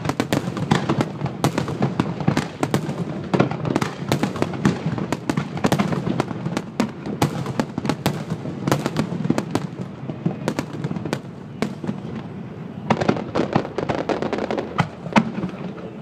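Finale barrage of aerial firework shells bursting in rapid succession, bangs and crackles overlapping almost without a gap. The bursts thin out briefly about two-thirds of the way through, then come thick again.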